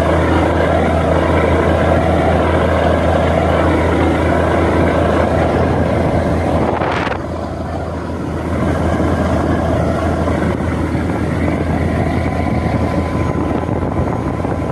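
Motorboat engine running steadily under way, a low even drone with wind and water noise over it. About seven seconds in there is a brief whoosh, and the drone dips a little for a second or so.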